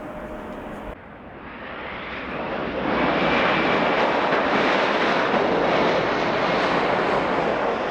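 Airliner's engines, a loud rushing noise that swells over about two seconds and then holds steady.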